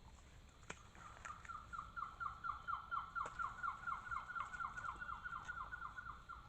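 A bird calling: a long, even series of short down-slurred notes, about five a second, starting about a second in. A single sharp click comes just before the series begins.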